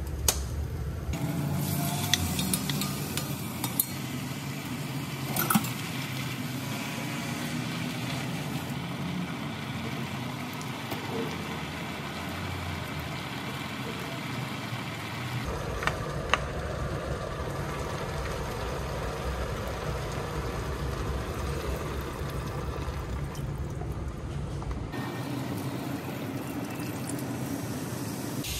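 Beef and soaked seaweed sizzling in sesame oil in an enamelled cast-iron pot as they are stir-fried with a wooden spoon, with a few sharp knocks of spoon or ingredients against the pot. Near the end, liquid is poured into the pot.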